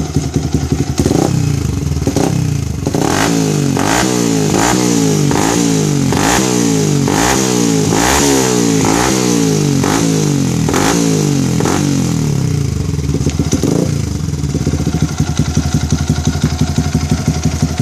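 Yamaha Vixion single-cylinder motorcycle engine with an aftermarket high-performance exhaust, idling, then revved in a quick series of short throttle blips, about one and a half a second, for some ten seconds, before dropping back to a steady idle.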